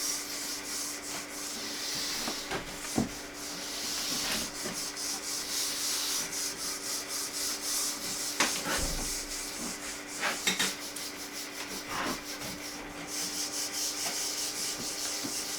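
Wire brush scrubbing back and forth over brickwork in quick repeated strokes, scraping excess dried clay mortar out of the joints, with a few sharper knocks of the brush against the brick.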